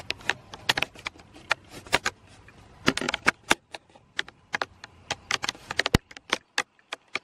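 Raindrops ticking on a hard surface close to the microphone: sharp, irregular clicks, several a second, with one louder knock about six seconds in.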